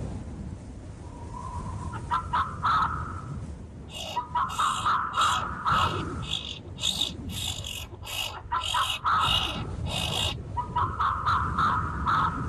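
Birds calling in about four runs of quick repeated notes, over a steady low background rumble.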